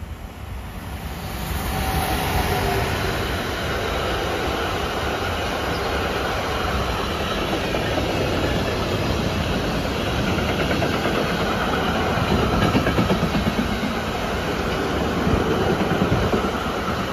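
Long freight train of car-carrier flat wagons passing close by, its steel wheels running on the rails; the sound grows louder over the first two seconds as the electric locomotive arrives, then holds steady as the wagons roll past.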